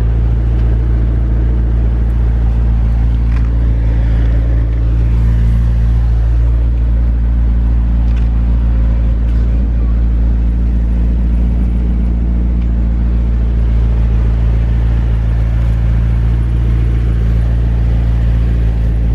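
A car engine idling steadily: a loud, even, low rumble with a constant hum that does not change pitch.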